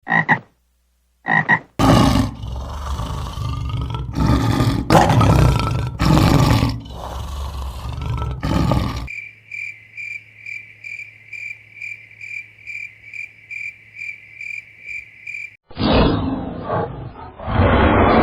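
A run of animal calls: two short croaks, then a long series of loud, rough roaring calls, then a high chirp repeating about three times a second for several seconds, then more rough calls near the end.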